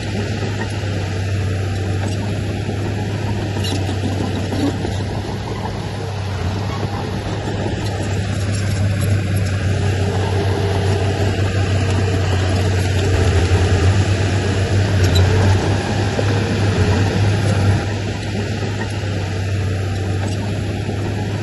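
Heavy diesel engine of earthmoving equipment running steadily with a deep hum, louder for a few seconds in the second half, then easing back.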